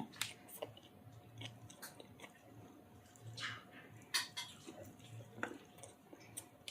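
A person chewing and eating chicken curry with roti and rice, with irregular mouth smacks and clicks over a soft, steady chewing rhythm.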